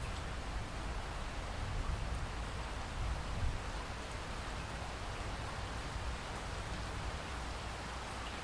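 Steady rainfall: an even hiss of rain with a low rumble beneath it.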